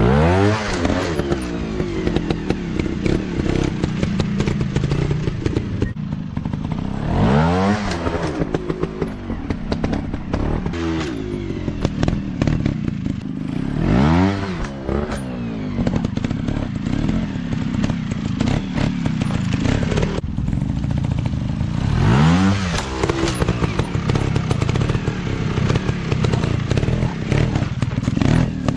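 Dirt bike engine revving up sharply about four times, the pitch climbing steeply each time, with constant clattering and knocks alongside.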